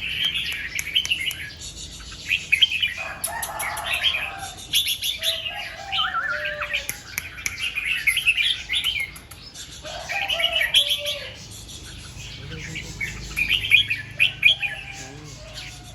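Red-whiskered bulbul singing: a string of short, bright chirping phrases repeated with brief pauses between them.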